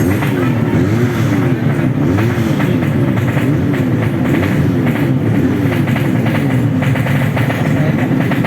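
Bored-up 125cc underbone race motorcycle engine revving up and down over and over, its pitch rising and falling about once every second.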